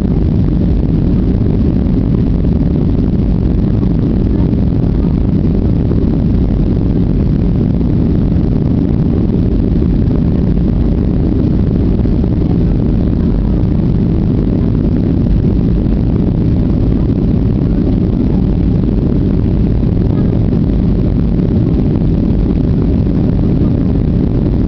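Inside the cabin of a Boeing 737-800, its CFM56-7B jet engines and the rushing air make a loud, steady low rumble at takeoff.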